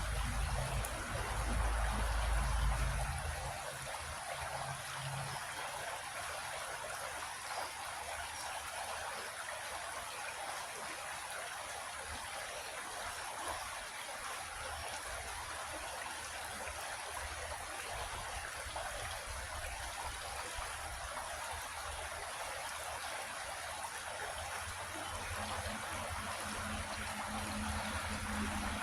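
Creek water flowing steadily over stones, an even rushing and trickling. A low rumble sits under it for the first few seconds, and a low hum joins near the end.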